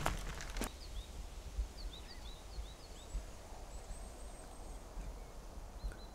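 Small birds chirping: a quick run of short high chirps over the first few seconds, then a thin high call. One footfall knocks on the wooden boardwalk planks just after the start.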